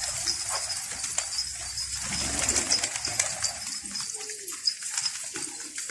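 Domestic pigeons cooing, several falling coos in the second half over a steady patter of small clicks and scuffs from the flock.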